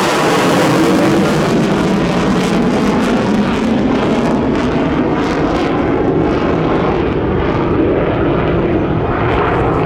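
Boeing F-15QA fighter's twin General Electric F110 turbofan engines running, a loud, steady jet noise with a deep rumble underneath.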